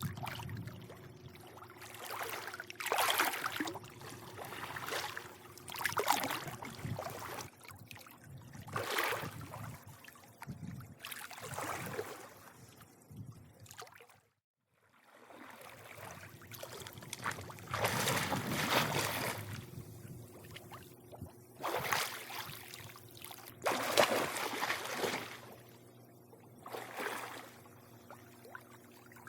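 Pool water lapping and sloshing in irregular swells every second or two, over a faint steady low hum. The sound cuts out to silence for about a second halfway through.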